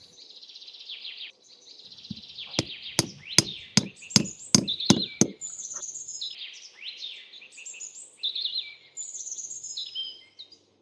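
Small birds chirping and twittering, with a run of about eight sharp knocks, two or three a second, from about two and a half seconds in to about five seconds in.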